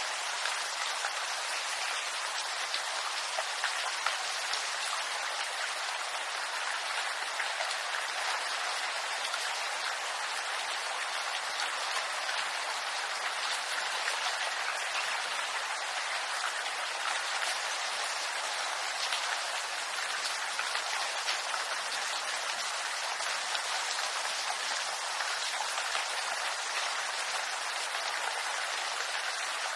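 Steady rain falling on bamboo: many small drops ticking on the leaves over an even hiss, with no letup.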